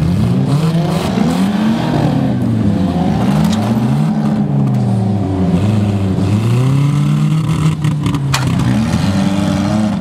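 Several car engines revving up and down at once as battered cars push and manoeuvre on a snow track, with a sharp knock about eight seconds in.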